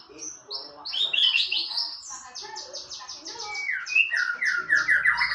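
White-rumped shama (murai batu) singing a varied, continuous song: quick runs of high repeated notes and trills, then a falling note and a series of lower repeated notes near the end.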